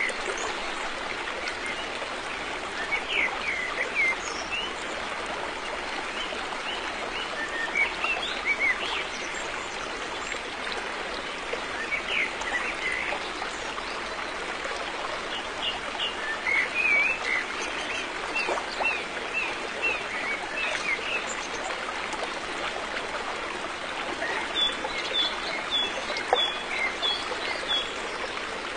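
River water flowing steadily, with birds chirping in short bursts of quick high notes every few seconds over it.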